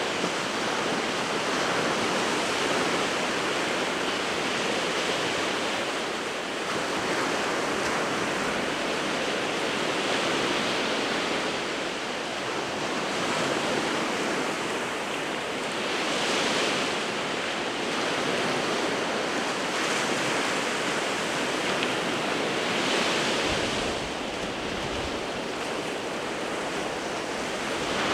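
Sea waves breaking in continuous surf, swelling into a louder wash every six or seven seconds.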